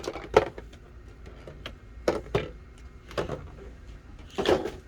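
Hands handling the collection box's packaging and the card: scattered light clicks and rustles, with a longer rustle near the end.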